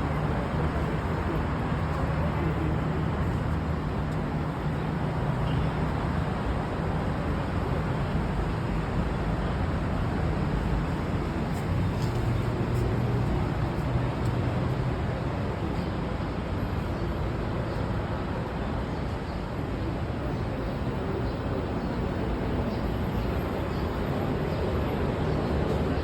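Steady rumble of a train with a low engine hum, holding fairly even throughout.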